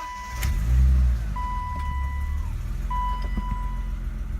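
A 1988 BMW 325's engine catches on a cold start about half a second in, flares up loudly for about half a second, then settles into a steady cold idle. A steady high electronic warning chime from the car sounds on and off over it.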